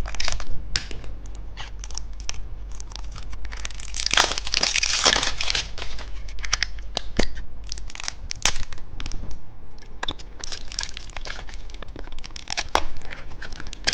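Plastic candy wrapper being torn open and crinkled by hand, with many sharp crackles and clicks; the crinkling is densest about four to five seconds in.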